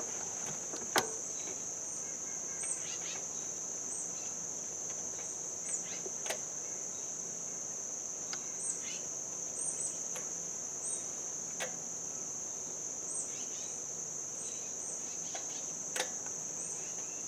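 Steady high-pitched drone of crickets, with a few sharp clicks and taps of tools and metal parts, the loudest about a second in, as a bolt is worked toward its hole.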